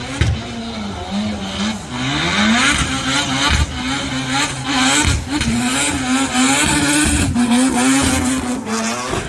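Drift car engine revving hard, its pitch rising and falling several times as the throttle is blipped, over tyre squeal, with several sharp cracks.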